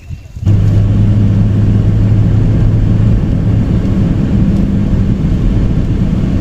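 A loud, steady low drone with a held low hum that starts suddenly about half a second in.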